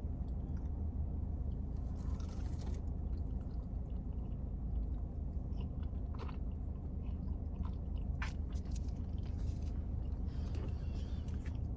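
A person chewing and biting food close to the microphone, with scattered short crunchy clicks, over a steady low hum.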